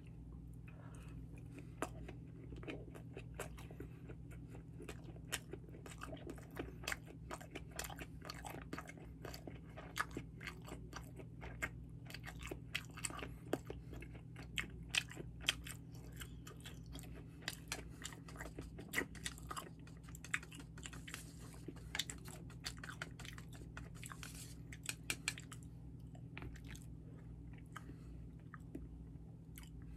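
A person chewing sushi close to the microphone: a steady run of short wet mouth clicks and smacks, thinning out near the end, over a low steady hum.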